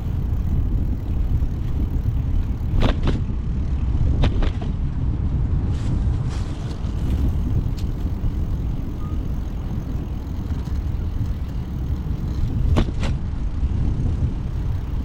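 Steady low rumble of wind buffeting the microphone on a moving bicycle, with a few short clicks or rattles, one about three seconds in, one after about four seconds and one near the end.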